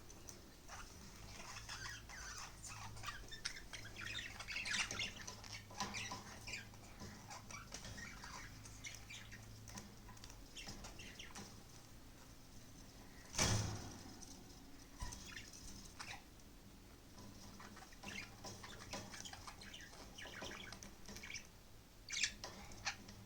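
Pet budgerigars chirping and chattering in a stream of short, quick calls. About halfway through comes a single sharp knock, the loudest sound in the stretch, and there are a few more clicks near the end.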